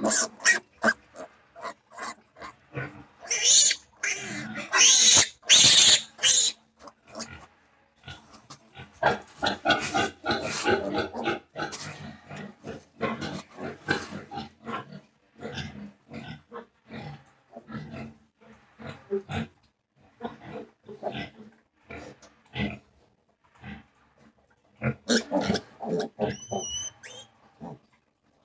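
Days-old piglet squealing loudly while held for an iron injection, with the loudest squeals a few seconds in, then a long run of short squeals and grunts.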